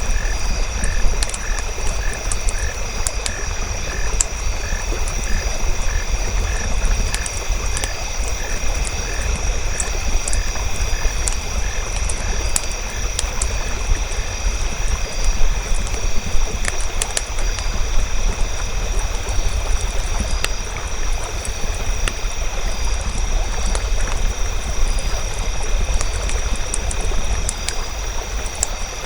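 Campfire crackling with scattered sharp pops over a steady low rumble. A frog croaks about twice a second through the first half, then fades out. Several steady high ringing tones run underneath.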